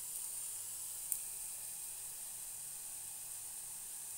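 Food sizzling in hot oil in a pan: a steady sizzle, with a small click about a second in.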